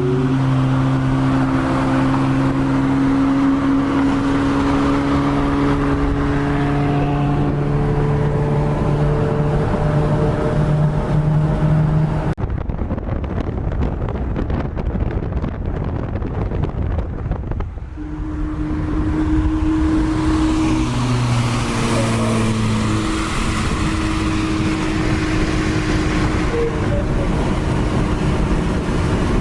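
Straight-piped Acura TL V6 exhaust droning at a steady cruise. About twelve seconds in, the tone drops out and leaves only a rush of road noise. It comes back about six seconds later at a slightly different pitch.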